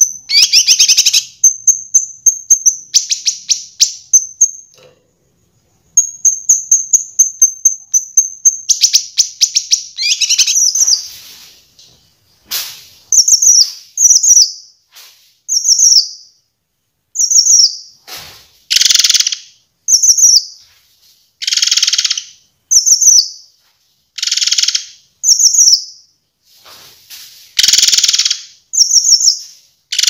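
Kinoi leafbird singing: rapid high trills for the first several seconds, a short pause, then a run of brief downslurred whistled notes alternating with loud harsh, raspy calls.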